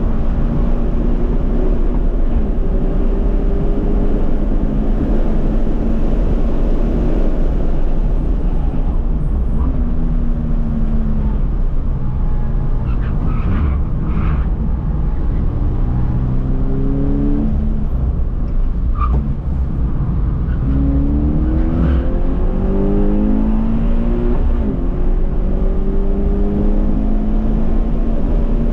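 Toyota GT86's flat-four engine heard in the cabin, its note climbing repeatedly through the gears and falling away under braking, over constant road and wind noise.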